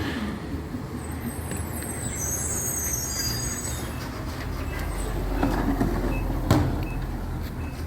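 Recycling truck's diesel engine running steadily. High squeals come about a second in and last a couple of seconds, and a single clunk comes about six and a half seconds in.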